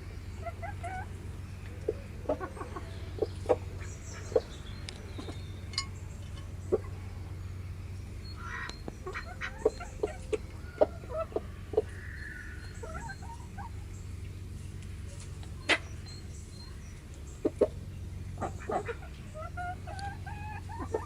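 Chickens feeding, with sharp irregular pecking taps and soft short clucks, over a steady low hum.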